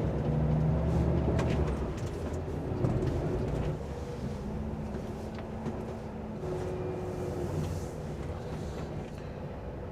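Volvo hooklift truck's diesel engine running as the lorry drives slowly, heard from inside the cab; the engine note changes pitch and eases off about four seconds in.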